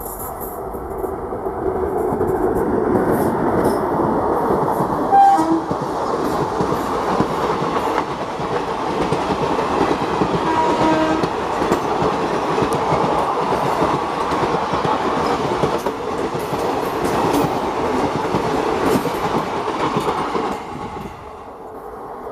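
Express passenger train hauled by an electric locomotive passing close at speed: a steady rumble and rail clatter from the coaches, with short horn blasts about five seconds and eleven seconds in. Near the end the sound cuts to the quieter noise of another train approaching.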